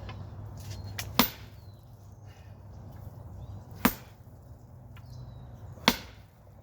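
A sledgehammer strikes a rock three times, about two to three seconds apart, each blow a sharp crack with a short ring.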